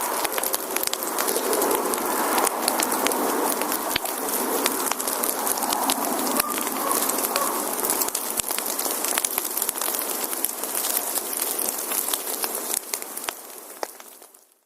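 Wood fire burning: a dense, steady crackle of many small pops and snaps over a soft hiss, fading out near the end.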